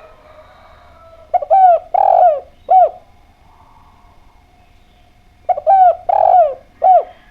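Spotted dove (derkuku) cooing: two call phrases about four seconds apart, each a quick pair of notes, a longer middle coo and a last falling note.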